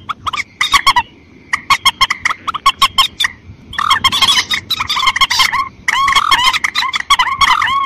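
Calls of mandar, rail-family waterbirds such as swamphens and moorhens: rapid runs of sharp clicking notes and repeated short arched squawks, in bursts broken by brief lulls about a second in and again near the middle.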